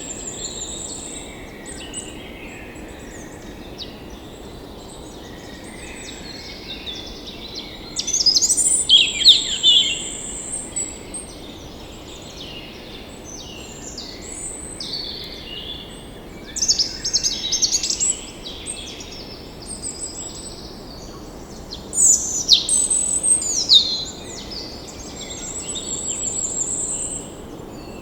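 Many small birds chirping and calling at once, with three louder bouts of rapid chatter, over a steady background hum.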